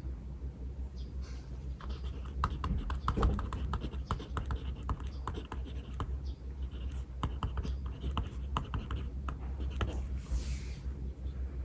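Writing on paper: a run of short scratchy strokes and taps, busiest through the middle, over a low steady hum.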